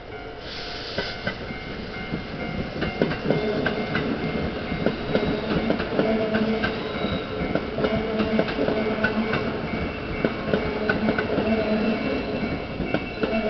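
Kintetsu limited express train rolling past at a level crossing, its wheels clacking over the rail joints and points in quick irregular clicks. Steady ringing tones, typical of the crossing's warning bell, run underneath.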